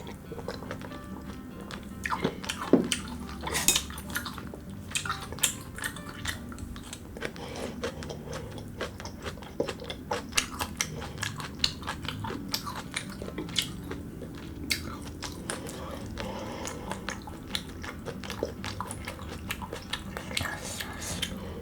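Eating utensils clinking against dishes in many short, irregular clicks, mixed with biting and chewing.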